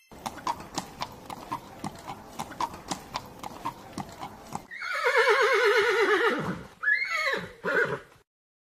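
Horse hooves clip-clopping steadily for about four and a half seconds, then a horse neighing: one loud, quavering whinny followed by two shorter calls.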